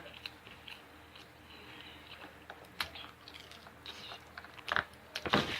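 Close-miked chewing and biting of food, with a few sharper mouth clicks, the loudest near the end.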